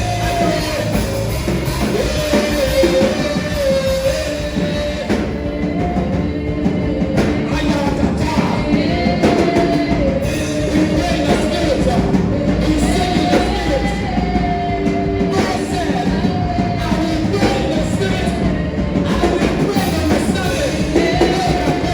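Gospel worship music: voices singing over loud, continuous instrumental accompaniment.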